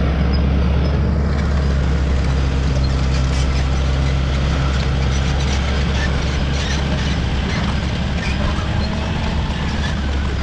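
Caterpillar D5 wide-track bulldozer's diesel engine running steadily at work, a loud deep drone, with scattered clanks over it.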